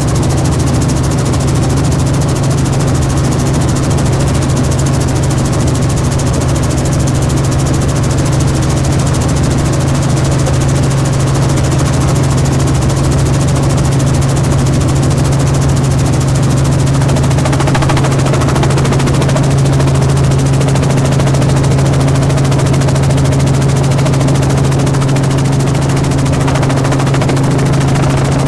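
Helicopter running: turbine and rotor make a loud, steady drone with a strong low hum that does not change.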